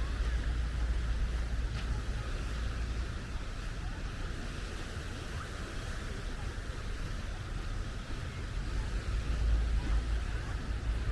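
Wind rumbling on the microphone over a steady rush of surf.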